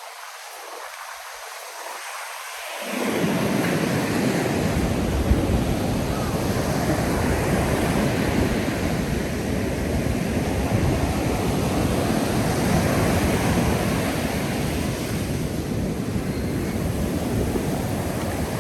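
Ocean surf washing onto a sandy beach, a steady noise. About three seconds in, wind starts rumbling on the microphone and the sound gets louder.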